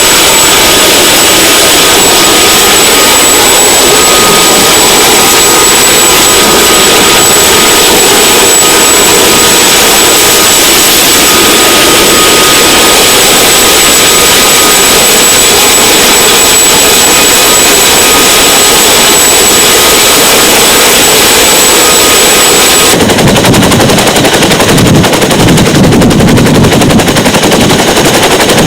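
Twin-turbine CH-47 Chinook helicopter running loud: a steady turbine whine and roar, which changes near the end to a rapid, close rotor chop.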